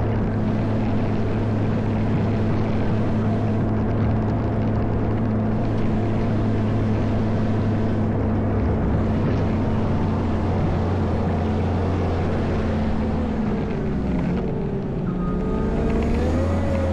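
Caterpillar 140M motor grader's diesel engine running steadily while plowing snow. Near the end the engine note dips and a wavering whine rises and falls.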